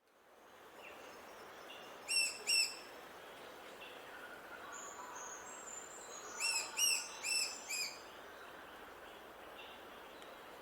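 Wild birds calling and singing over a steady background hiss: two loud, sharp calls about two seconds in, then a run of four or five more between about six and eight seconds, with fainter whistled notes in between.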